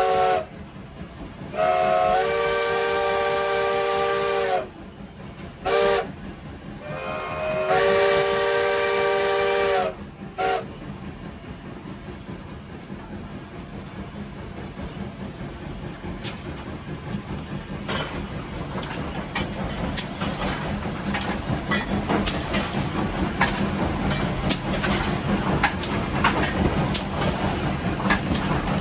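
Steam locomotive whistle sounding several notes at once in the grade-crossing pattern: the tail of a long blast, a long blast, a short one and a final long one. After that the locomotive runs on under steam in the cab, hissing, with a regular beat that grows louder toward the end.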